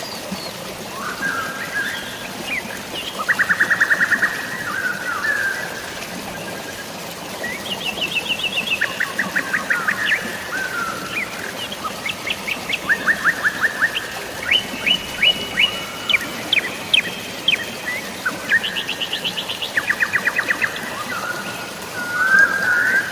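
Several birds chirping, with repeated fast trills of about a second each, over a steady hiss of falling rain and flowing water.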